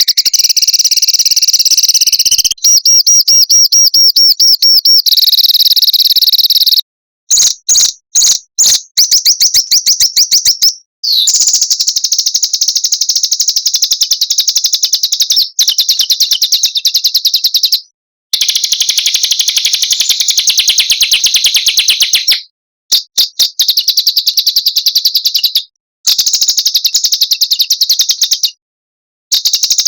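Small songbird singing fast, high, rattling trills: runs of very rapid repeated notes, each a few seconds long, broken off by short silent gaps, the 'roll' and 'tembakan' (shot) phrases used as tutor song for training cage birds.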